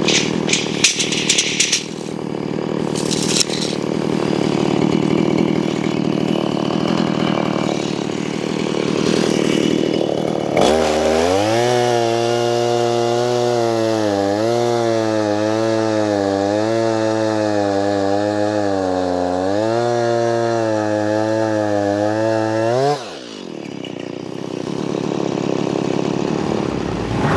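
Chainsaw working timber: a rough, uneven running sound with a few sharp clicks, then about ten seconds in the saw goes to full throttle with a sudden steady whine. The whine wavers slightly in pitch and cuts off about 23 seconds in.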